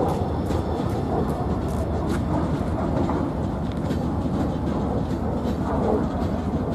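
Freight train of covered hopper cars rolling past, a steady rumble of steel wheels on the rails with faint scattered clicks.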